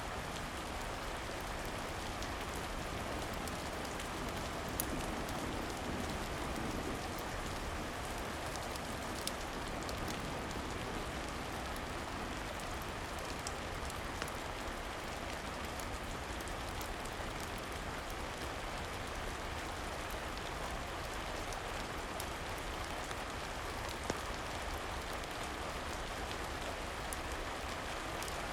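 Steady rain falling, an even hiss with scattered sharp clicks and ticks.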